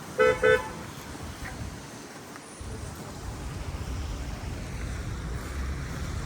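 A car horn gives two short toots in quick succession, a fraction of a second apart. A low rumble of street noise then builds from about two and a half seconds in.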